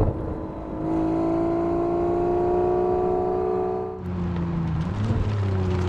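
Aston Martin V12 Speedster's twin-turbo V12 accelerating through a Quicksilver Titan sport exhaust. The engine note climbs steadily for about three seconds, drops away at a gear change about four seconds in, then starts rising again.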